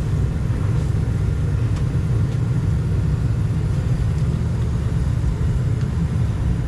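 Steam pressure washer running with its diesel burner firing: a steady low rumble. The burner is still smoking with its air damper wide open, which points to a fuel nozzle too large for it.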